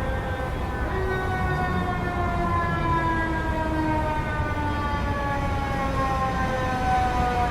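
Steady low rumble of city street traffic, with a droning pitched tone above it that slides slowly and smoothly downward in pitch.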